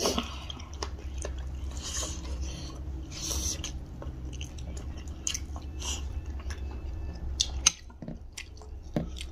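Close-up mukbang eating sounds: two people chewing rice and chicken curry by hand, with wet mouth sounds and scattered short smacks and clicks. A low steady hum runs underneath.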